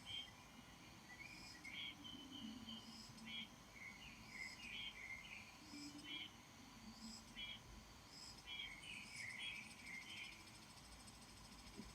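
Faint bird chirps and short warbling phrases, repeating every second or so, over a faint insect buzz.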